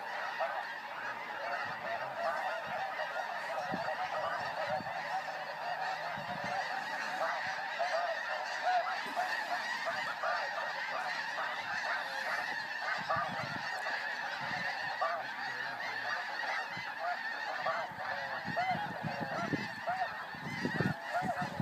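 A large flock of snow geese calling all at once: a dense, unbroken din of many overlapping honks.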